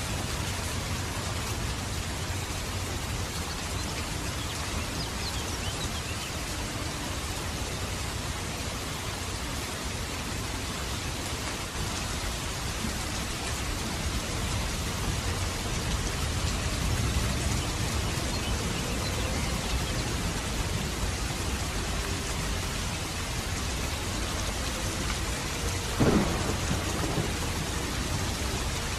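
Steady rain falling, with a low rumble of thunder swelling in the middle and a sudden loud crack near the end.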